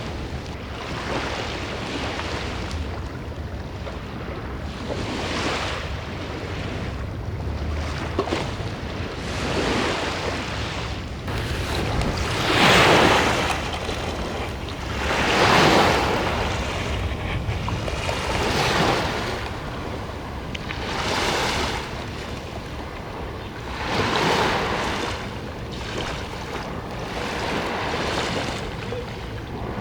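Sea waves washing in, swelling and fading every two to three seconds, under a steady rumble of strong wind buffeting the microphone.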